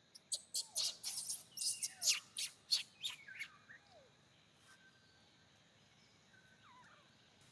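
Bird chirping: a rapid burst of sharp, high calls lasting about three seconds, some sliding down in pitch, followed by a few faint calls.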